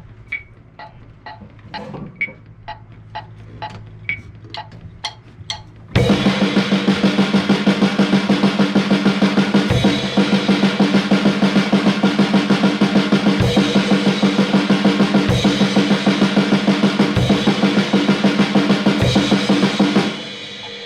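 A metronome app ticks steadily, about two clicks a second. About six seconds in, an acoustic drum kit comes in loud and plays a steady practice beat with fast, even cymbal strokes and a heavy accent about every two seconds, stopping suddenly near the end.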